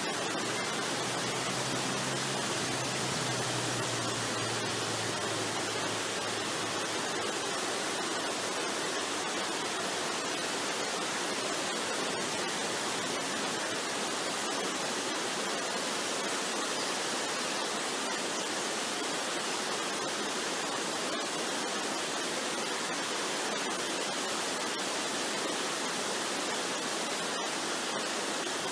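Waterfall rushing steadily. A faint low tone sounds underneath in the first few seconds and fades out about six seconds in.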